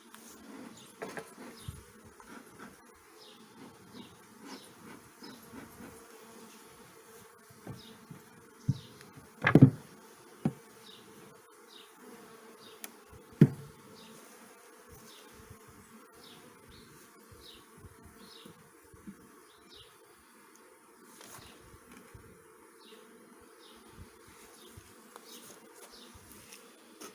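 Honey bees buzzing steadily around an opened hive, with two sharp knocks, about ten and thirteen seconds in, that are the loudest sounds.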